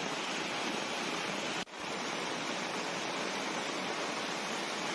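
Steady rush of water. It cuts out for an instant about a second and a half in, then carries on.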